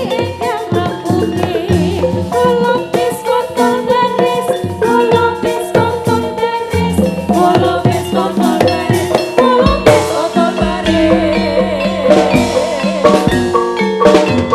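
Loud live Javanese jathilan music: a gamelan-style ensemble of metallophone notes over steady drum strokes, with a drum kit joining in near the end.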